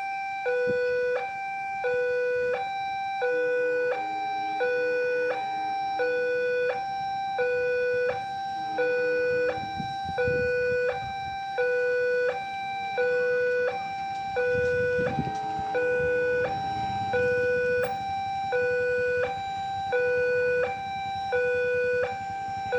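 Railway level-crossing warning alarm sounding a two-tone electronic signal, a lower and a higher tone alternating about every 0.7 seconds, the warning that a train is approaching. A low rumble swells and fades in the middle.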